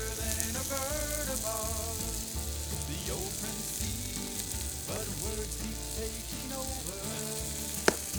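Chicken sizzling on a thick iron griddle over a split-log Swedish torch fire, a steady hiss. There is a single sharp click near the end.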